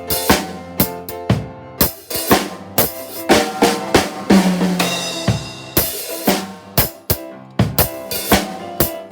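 Drum kit playing a steady reggae groove of bass drum, snare and rimshot strokes, over piano accompaniment holding chords.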